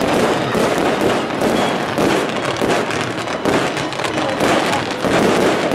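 Fireworks crackling densely and without a break, a rapid stream of small sharp pops.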